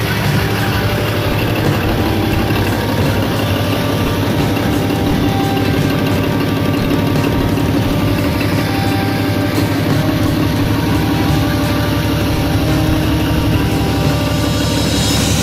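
Komatsu SA6D170E-2 inline six-cylinder diesel engine running steadily during its break-in run.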